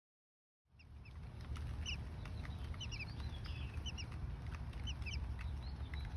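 Small birds chirping: short, high chirps, often in quick pairs, repeated again and again. They come in over a steady low rumble, starting just under a second in.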